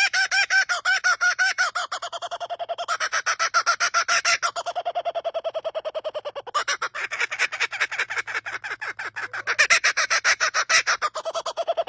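A bird calling in long runs of rapid, repeated pitched notes that sound like human laughter, phrase after phrase with only brief breaks.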